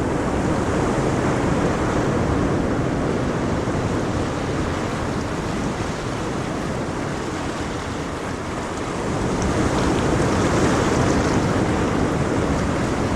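Ocean waves breaking and washing on a shore in a steady roar of surf that swells, growing louder about nine seconds in.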